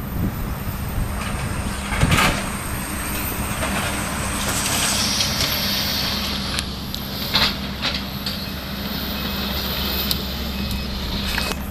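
Excavator engine running steadily during building demolition. Two sharp crashes, about two seconds in and again about seven seconds in, with a stretch of rushing, hissing noise in the middle.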